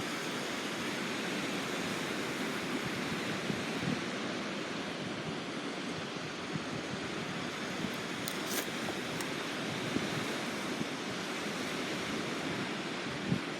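Steady wash of ocean surf with wind on the shore, with a few faint ticks a little past the middle.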